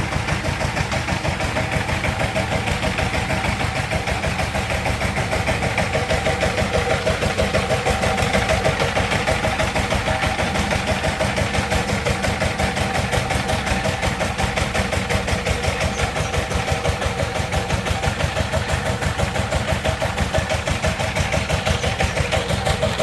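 Power tiller's diesel engine running steadily at idle, with a rapid, even chugging beat.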